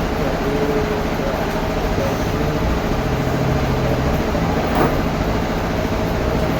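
Sawmill machinery running steadily, a loud continuous mechanical drone, with one brief sharp knock about five seconds in.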